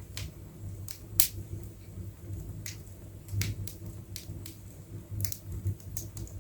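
Wood fire crackling in an open fireplace, with no doors on it: irregular sharp pops and snaps, about a dozen scattered through the few seconds.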